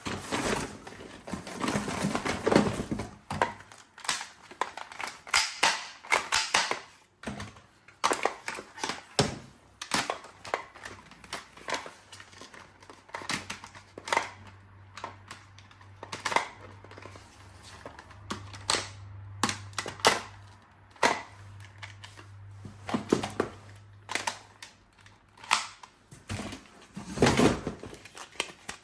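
Hard objects being handled: irregular clicks, taps and clattering knocks, with a low hum through the middle stretch.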